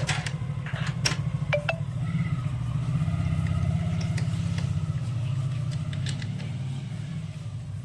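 Hero Super Splendor's single-cylinder four-stroke motorcycle engine running steadily at low speed, with a fast even low beat. A few light metallic clicks sound in the first two seconds.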